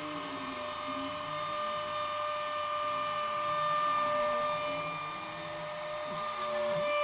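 Stepper motors of a homemade Arduino CNC machine on A4988 drivers whining as the axes move. Their pitch glides up and down over a steady high whine.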